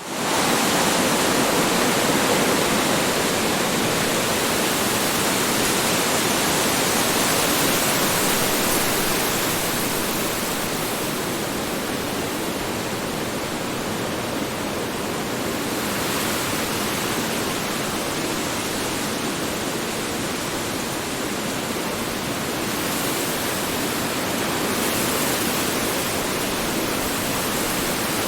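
Strong wind blowing: a steady, dense rushing hiss that fades in quickly at the start, with slow swells and lulls over several seconds.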